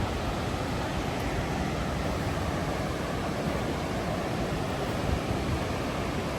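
Steady, even rush of ocean surf breaking on the reef and beach.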